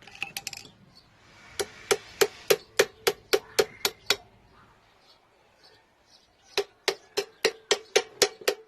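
Hammer tapping a new universal joint bearing cup into the drive shaft yoke in two runs of quick, even taps, about three a second, each with a short metallic ring, with a pause between the runs. The cup is being driven in just past the circlip groove.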